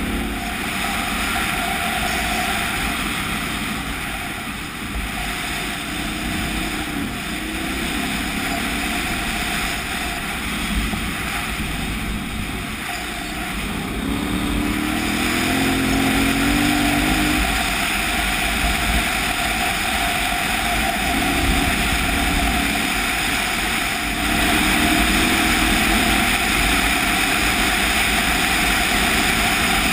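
KTM 990 Adventure's V-twin engine running under way on a ride, with wind rushing over the microphone; the engine's pitch rises about halfway through as the bike speeds up, and it stays louder after that.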